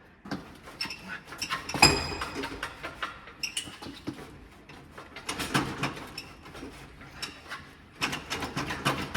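Metal clanks, knocks and rattles as a VW Beetle's air-cooled engine is worked back and forth on a jack, with one sharp ringing clank about two seconds in.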